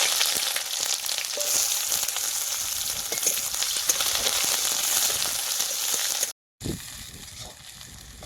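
Food sizzling in hot oil in a cooking pan: a loud, steady sizzle that cuts off abruptly about six seconds in, then resumes much quieter with a few light clicks.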